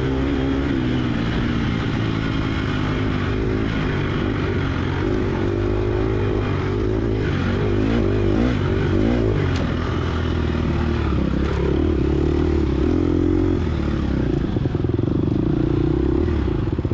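Engine of a 2022 GasGas EX250F dirt bike, a 250cc four-stroke single, running hard under constantly changing throttle, its pitch rising and falling. A few sharp clicks come through in the middle of the run.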